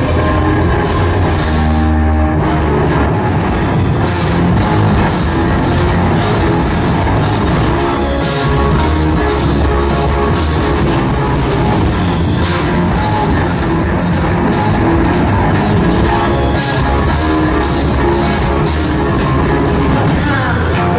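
Live rock band playing an instrumental passage: distorted electric guitars, bass and a drum kit, loud and steady.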